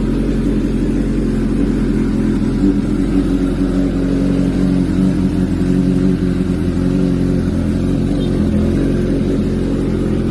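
Suzuki GSX-S750's inline-four engine running at a steady idle through newly fitted custom headers and midpipe, giving a low, even exhaust note.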